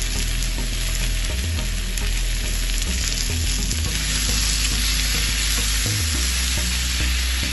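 Potato wedges and sliced onions sizzling steadily in a hot ridged grill pan, stirred and turned with a metal spatula.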